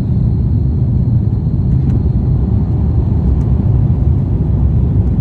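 Saudia Airbus A330 jet engines at takeoff power: a loud, steady low rumble.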